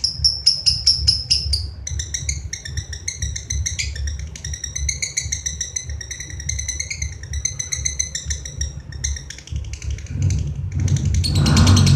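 Lovebird singing a long, fast chattering trill of high, rapidly repeated notes over a steady low hum. About a second and a half before the end, a louder, fuller sound comes in on top.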